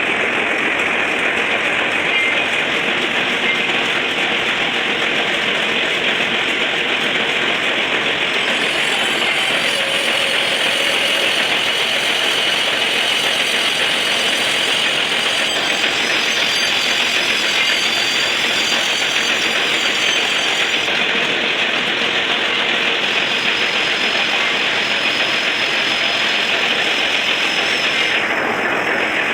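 Lathe running with a loud, steady mechanical noise. Thin high whistling tones come and go from about nine seconds in.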